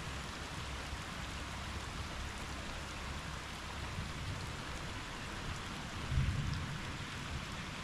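Steady rain falling outside a window, an even hiss of drops, over a low rumble of thunder that swells briefly louder about six seconds in.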